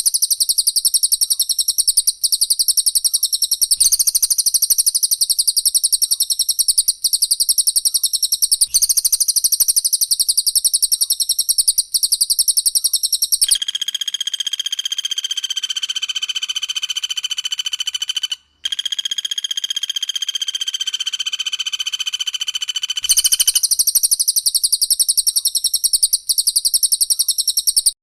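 Cage-bird song of Cililin and Pelatuk Bawang: a loud, very rapid, high-pitched trill repeated in close bursts. From about halfway through to near the end it changes to a steadier, somewhat quieter ringing song at a lower pitch, then the fast trill returns.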